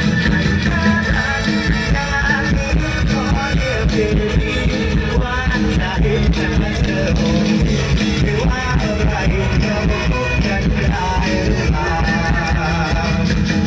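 Isan-style pop band music with a wavering sung or played melody over a steady, heavy bass beat.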